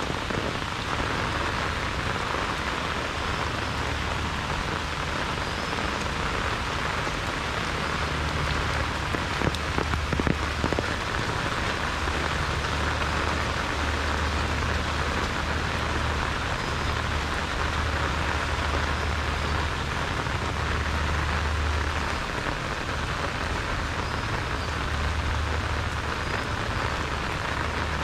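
Heavy rain falling steadily, with a low, uneven rumble of wind. A few sharper taps stand out about ten seconds in.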